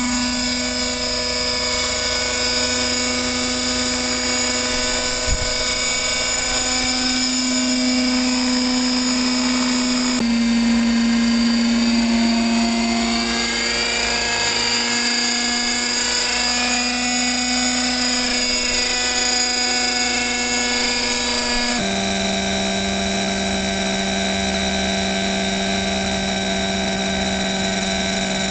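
Radio-controlled model helicopter's motor and rotor running with a steady, high-pitched whine. The pitch steps down to a lower, steady note about three-quarters of the way through.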